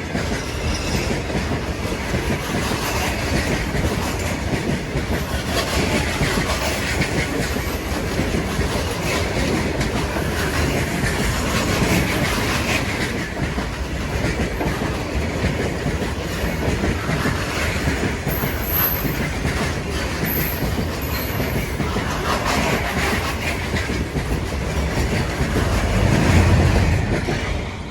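Train rolling past on the rails with a steady clatter of wheels over the track, and a few brief high wheel squeals about two-thirds of the way through. It swells loudest shortly before the end.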